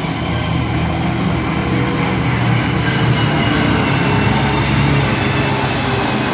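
Concrete mixer truck's diesel engine running steadily with a low drone.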